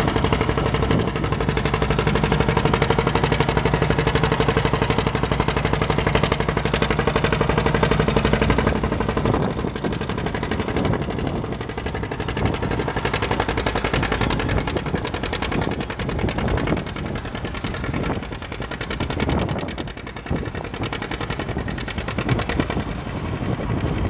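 Antique farm tractor engine running hard under load, pulling the weight sled, with a rapid steady firing beat. About nine seconds in, the steady note drops away and the engine sound becomes weaker and uneven.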